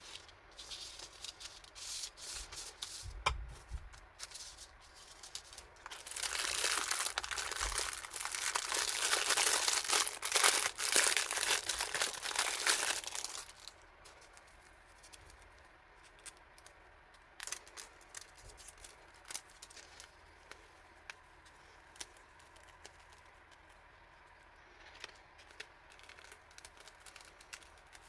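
Packaging being unwrapped by hand, crinkling and tearing. A loud continuous stretch of crinkling runs from about six to thirteen seconds, followed by scattered small rustles and taps.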